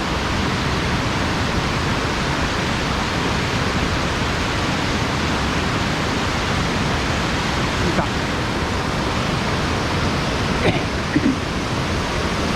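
Steady, even rush of water pouring over a sabo dam into a mountain stream, with a few faint short clicks late on.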